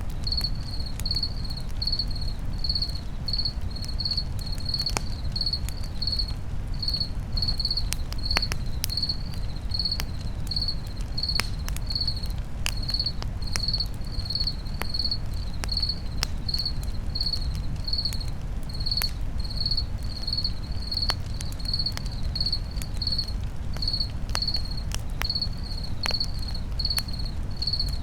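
Crickets chirping steadily, about two high chirps a second, over a campfire crackling with scattered sharp pops and a low steady rumble.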